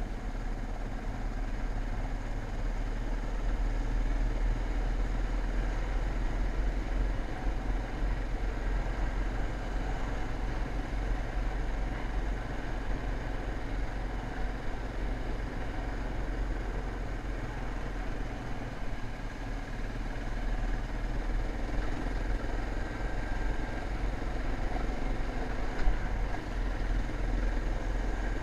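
Dirt bike engine running steadily under a constant deep rumble, with one brief knock near the end.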